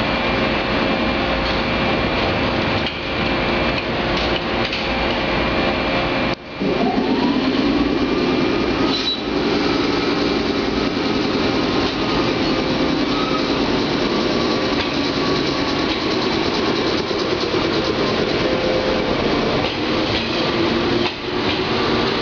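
415 series electric multiple unit pulling out of a station: a steady hum at first, then about six seconds in a traction-motor whine starts and rises in pitch as the train gathers speed, with another rising tone near the end.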